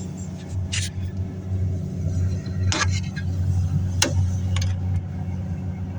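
Steady low hum of the refrigerator running, with a few short, sharp clicks scattered through it.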